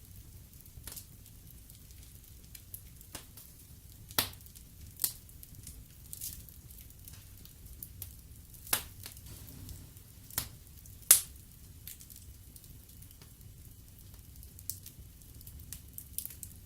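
Wood fire in a fireplace crackling: sharp pops at irregular intervals over a low steady rumble, the loudest pop about eleven seconds in.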